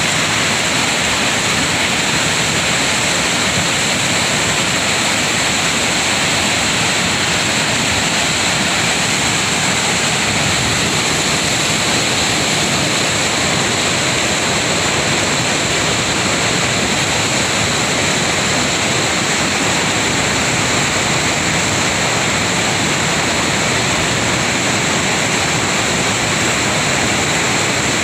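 Lohit River rushing: a loud, steady roar of fast-flowing water that does not change.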